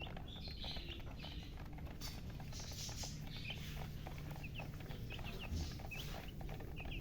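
Baby chicks peeping: many short, high chirps scattered through, over a steady low hum. The uploader takes the chirping for thirst.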